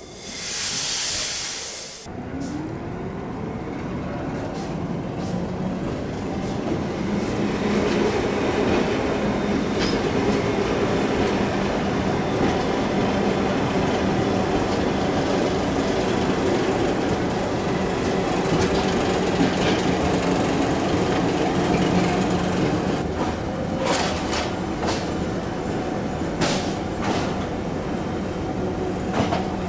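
Narrow-gauge electric train of the Bex–Villars–Bretaye railway running past close by: a loud hiss for about two seconds, then a rising motor whine as it gets moving, settling into a steady hum and wheel rumble with scattered sharp clicks from the wheels on the track, most of them near the end.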